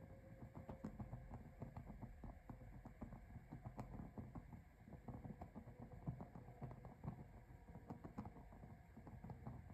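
Small fire in a mini fireplace crackling faintly, with many small irregular pops and ticks over a low rumble.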